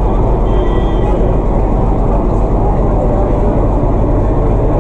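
Diesel locomotive engine running steadily, a deep continuous rumble.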